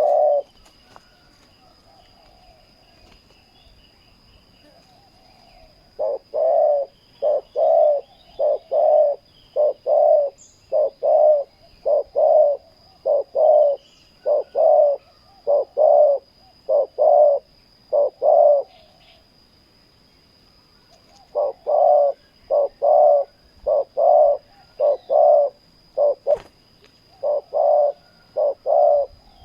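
Spotted doves cooing: a long run of deep, evenly spaced coos, a pause of a few seconds, then the cooing starts again.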